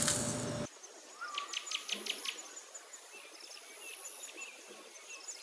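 Small birds singing and chirping, with a quick run of sharp notes about a second and a half in, over a faint thin high tone. A brief rush of noise opens the sound.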